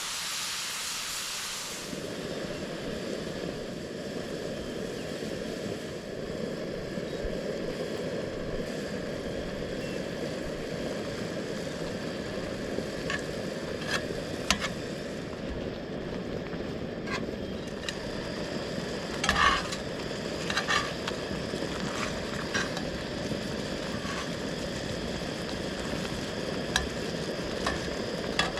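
Food sizzling in a frying pan: a bright hiss for the first couple of seconds, then a lower, duller steady frying sound. A few sharp clicks of a utensil against the pan come in the second half.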